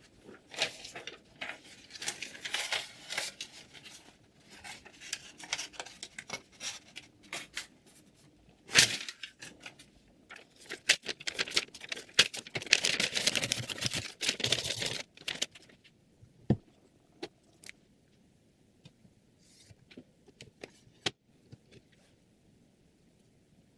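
Handling noises: irregular rustling, crinkling and sharp clicks, thickest in a dense rustling stretch around the middle, then only scattered clicks near the end.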